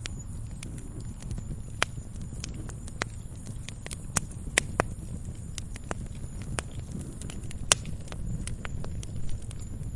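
Wood fire crackling in a fireplace: irregular sharp pops and snaps over a steady low rumble of the burning, with the loudest snap about three-quarters of the way through.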